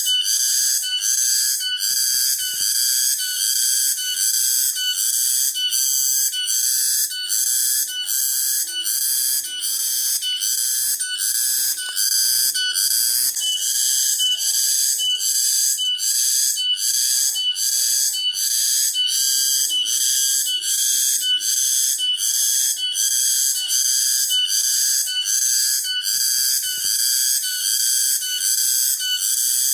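Cicadas singing in a steady, shrill, pulsing drone at about two pulses a second.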